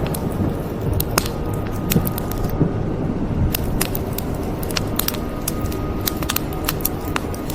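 Wood fire crackling, with many sharp, irregular pops and snaps over a low steady rumble.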